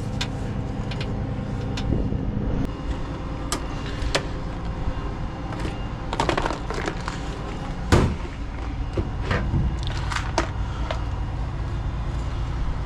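An engine running steadily in the background, with scattered clicks and metallic knocks from tools and parts being handled; the loudest knock comes about eight seconds in.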